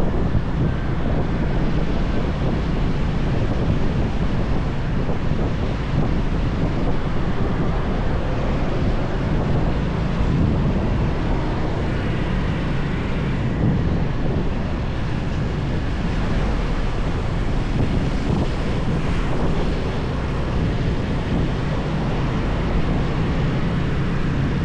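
Motorbike riding along a highway: steady wind rush on the microphone over the engine and road noise.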